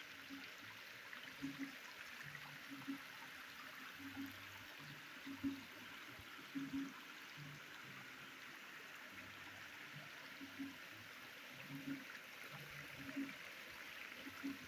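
Water of the Canoa Vieja cascades rushing steadily and faintly, with scattered brief low sounds every second or so.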